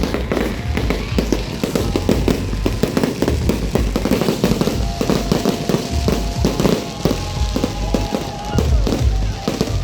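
Fireworks crackling and popping in a dense, rapid string of small bangs over a low rumble, with music playing at the same time.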